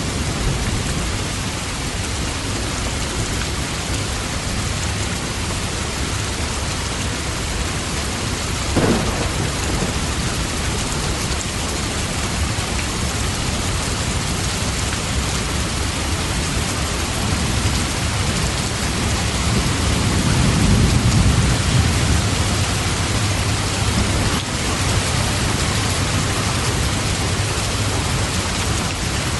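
Steady heavy rain, with a brief sharp crack about nine seconds in and a low rumble of thunder swelling from about eighteen to twenty-three seconds.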